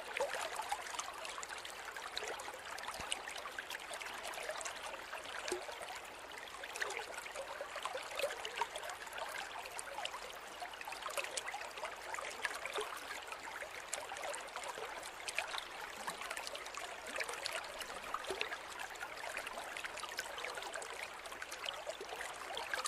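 Forest river flowing steadily: an even rush of water with many small trickles and splashes through it.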